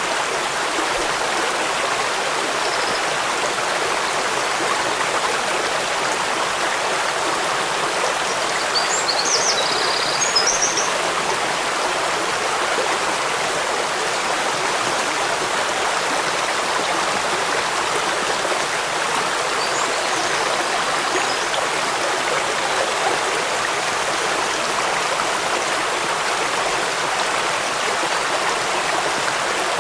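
Steady rushing water of a waterfall and stream, an even unbroken hiss. A few faint high chirps come through about ten seconds in and again around twenty seconds.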